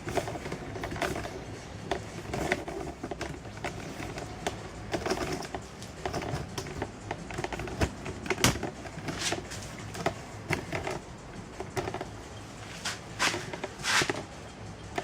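Irregular metallic clicks and knocks of hand tools on engine parts as the ignition of a Dnepr MT 10-36 motorcycle is worked on, with a few louder knocks about halfway through and near the end.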